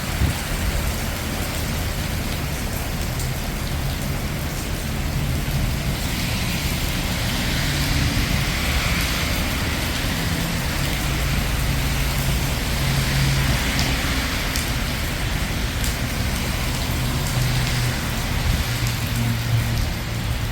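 Steady rain falling on city streets over a low rumble of traffic engines. The hiss swells twice, about eight and thirteen seconds in, as vehicles pass on the wet road.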